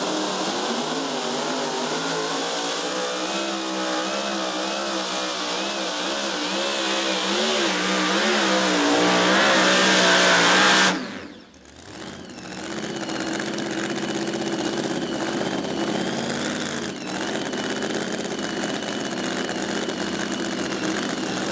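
Supercharged Hemi engine of a super modified two-wheel-drive pulling truck running hard with an unsteady, wavering pitch, while it has major mechanical problems and blows clouds of unburnt fuel out of the headers. It grows louder and cuts off abruptly about eleven seconds in. A steadier engine sound comes back a second or so later.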